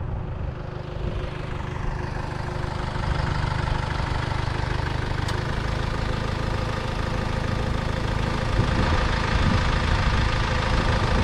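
A motor vehicle engine idling steadily, getting a little louder over the first few seconds and then holding even.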